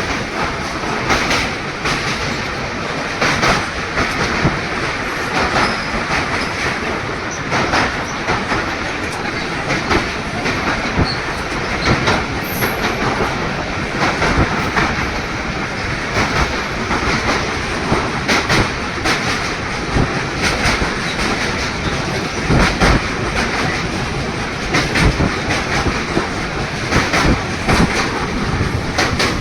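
Passenger train running on the rails: a steady rumble with a fast, uneven clickety-clack of wheels over rail joints throughout.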